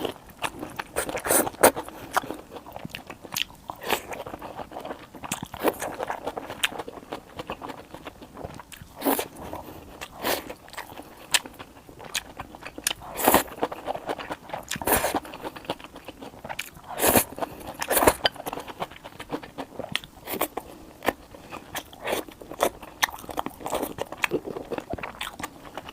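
Close-miked eating: bites into crunchy food and chewing, with many sharp, irregular crunches.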